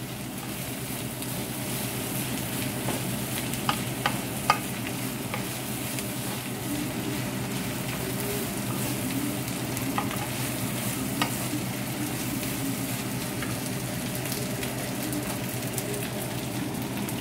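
Chopped leftover roast pork for sisig sizzling steadily in a nonstick frying pan as it is stirred with a wooden spatula. A few sharp clacks of the spatula against the pan come around four seconds in and again near ten and eleven seconds.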